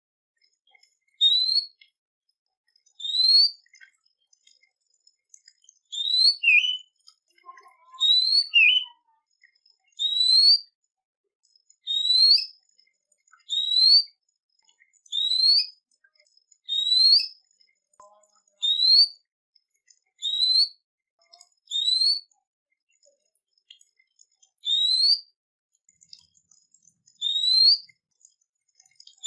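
A songbird's clear whistled note, each one rising quickly in pitch, repeated over and over about every one and a half to two seconds; a couple of the notes are followed by a brief lower note.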